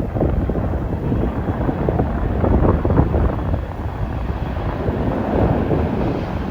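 Strong wind buffeting the microphone in uneven gusts, over the low rumble of an arriving jet airliner.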